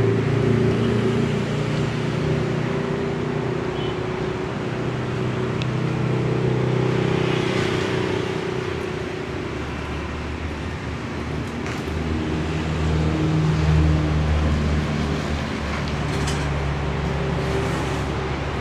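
A motor vehicle engine idling steadily nearby. About ten seconds in its hum shifts lower and heavier.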